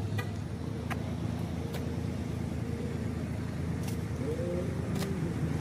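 A car engine running low and steady at slow speed, with a few faint clicks.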